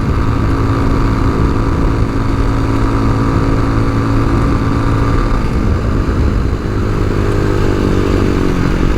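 Tao Tao TBR7 dual-sport motorcycle engine running steadily under way, with wind noise on the microphone; the engine note dips briefly and shifts a little past halfway. The engine is freshly valve-adjusted with a cleaned carburettor and running well.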